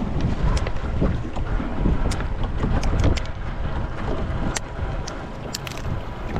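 Strong wind buffeting the microphone with a heavy low rumble, with a scatter of sharp irregular clicks and taps over it.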